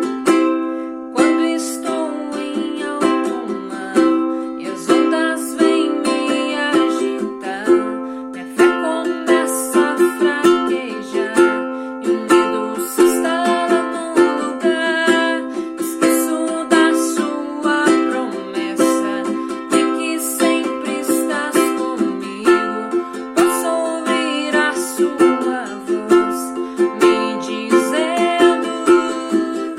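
Instrumental music: a plucked string instrument picking a melody over steady held chords.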